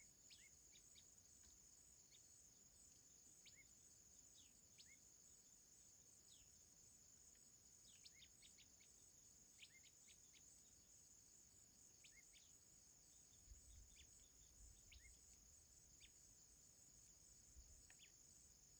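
Faint outdoor ambience: a steady high-pitched insect trill, typical of crickets, with many short, downward-sweeping chirps from small birds scattered throughout.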